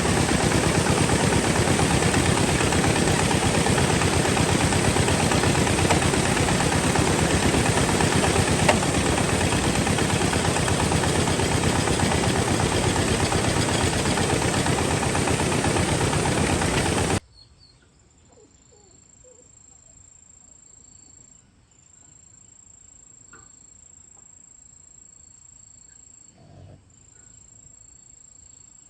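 An engine runs loudly and steadily with a fast, dense knocking, then cuts off suddenly about seventeen seconds in. What follows is quiet, with a cricket trilling in one steady high tone that breaks off briefly now and then.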